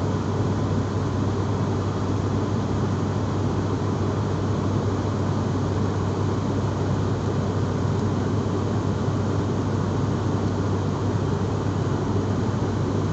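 Steady drone of an airliner's engines heard inside the passenger cabin in flight, a constant low hum under an even rush of air noise.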